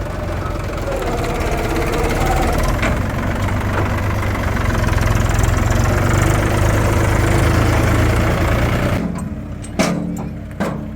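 Diesel engine of a heavy farm or earthmoving machine running steadily under a little load. It falls away sharply about nine seconds in and is followed by two sharp knocks.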